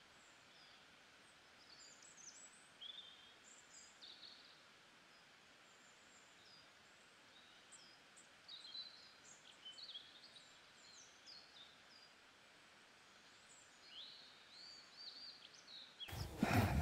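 Several small songbirds singing, many short high chirps and trills overlapping, over a faint steady hiss of open air. Near the end a sudden louder rustling noise cuts in.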